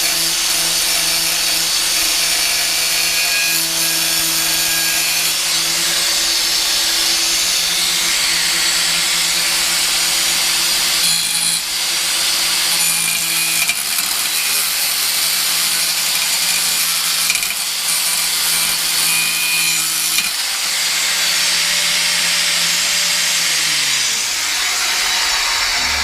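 Angle grinder with a stainless-steel cutting disc cutting through a thick stainless steel motorcycle header pipe: a steady, loud grinding hiss over the motor's whine. In the last few seconds the whine falls in pitch as the grinder spins down.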